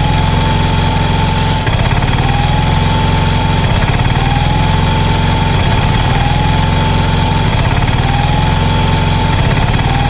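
Heavy vehicle engine idling steadily, with a short rising whine that repeats about every second and a half.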